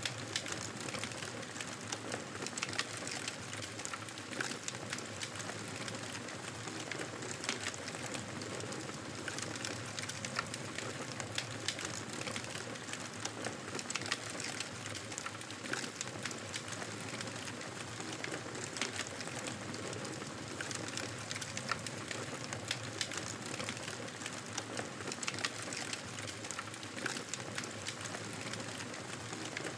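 Campfire burning: a steady hiss of flames with frequent small crackles and pops from the burning wood.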